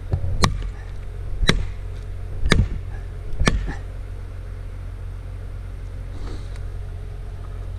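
Four hard strikes, about a second apart, driving a felling wedge into the back cut to tip over a tree that a limb is holding back. A steady engine hum runs underneath.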